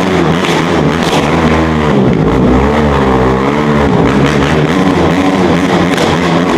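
Dirt bike engine running and revving, its pitch dipping and rising again about three seconds in.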